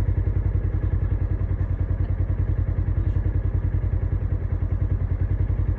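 An engine idling steadily, a low, fast, even throb.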